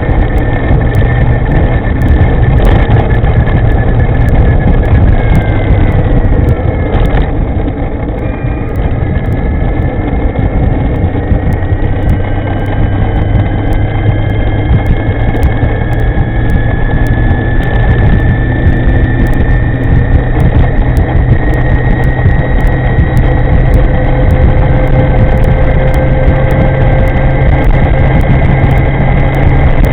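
Steady wind rush and road noise on the microphone of a moving electric motor scooter. Over it a faint high electric-motor whine falls in pitch about six to eight seconds in, as the scooter slows, then climbs slowly again as it picks up speed.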